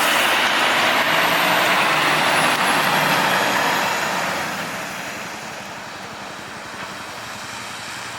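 Scania P450 truck running: a loud, steady noise for about four seconds that then fades and stays quieter, as when the truck moves away.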